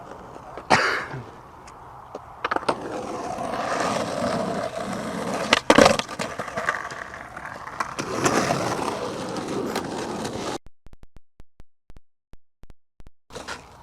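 Skateboard wheels rolling on concrete with sharp board impacts, the loudest about halfway through. Near the end the sound drops away to near silence with a few faint ticks.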